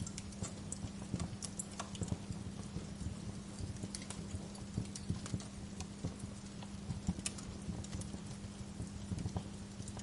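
Wood fire crackling, with irregular sharp pops and snaps over a soft hiss, and a steady low hum underneath.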